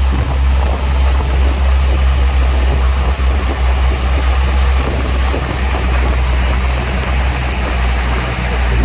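Heavy earthmoving machine's diesel engine running steadily with a low drone.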